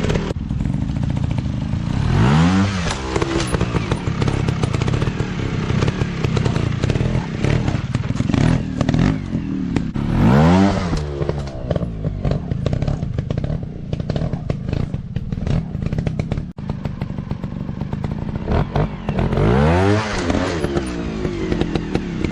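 Dirt bike engine running with a rattly, popping sound, revving up and dropping back three times: about two seconds in, ten seconds in and near the end.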